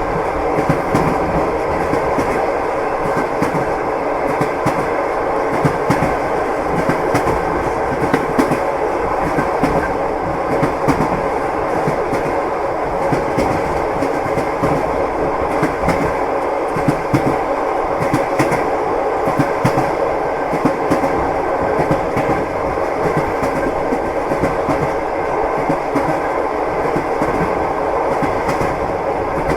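Passenger train running on rails, heard from inside the carriage: a steady rumble with the clickety-clack of wheels crossing rail joints.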